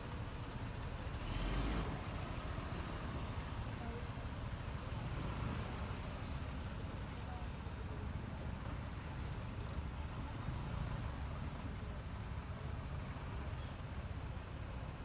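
Steady riding noise from a Honda ADV 150 scooter on the road: wind buffeting the microphone over engine and road rumble, with a louder rush about a second and a half in.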